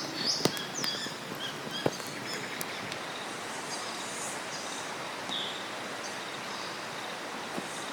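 Outdoor ambience: a steady hiss with a few short, high bird chirps that dip in pitch, mostly in the first second and about five seconds in, and a handful of sharp clicks.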